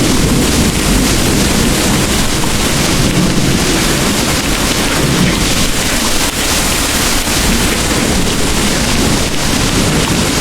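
Heavy rain pouring steadily, a dense even hiss with a continuous low rumble of distant thunder beneath it.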